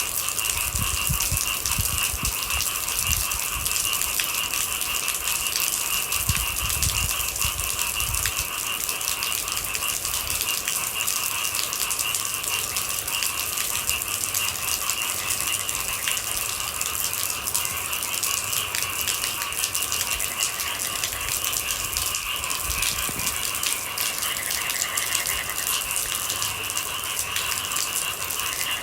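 Steady dense rain patter, thousands of drops, with a constant high drone beneath it.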